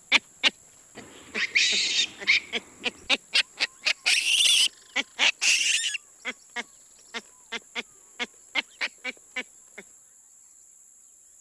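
Baboon calls: a long run of short, sharp barks, with a few longer, rougher calls among them in the first six seconds. The barks grow fainter and stop shortly before the end.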